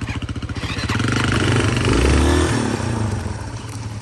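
Trail motorcycle engine idling, then revved hard about a second in as the bike takes a run at a log, peaking in the middle and easing back near the end.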